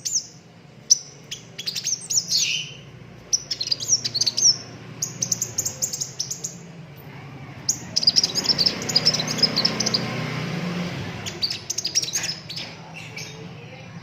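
A sunbird singing in a string of quick, high trilled phrases: rapid rolls of sharp notes, each burst a second or two long with brief pauses between. A steady low hum runs beneath, with some hiss in the middle of the stretch.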